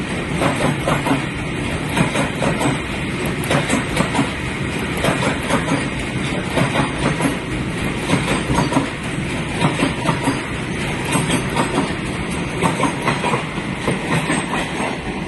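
A train running on the track, its wheels clattering steadily over the rails with many short clicks.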